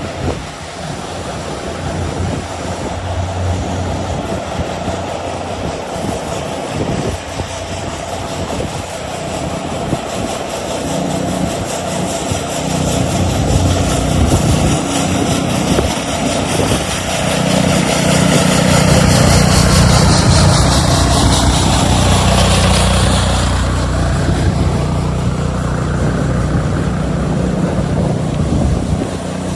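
Steady engine noise that swells to its loudest about twenty seconds in, while a high tone falls in pitch, then eases off.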